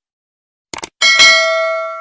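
Two quick clicks, then a bright bell-like ding that rings on with several clear tones and slowly fades.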